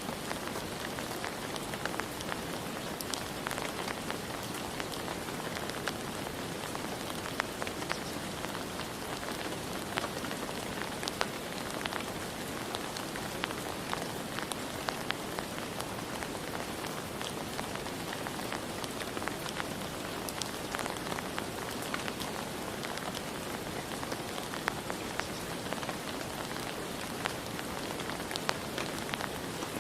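Steady rain falling, with the sharp ticks of individual drops striking a hard surface scattered through an even hiss.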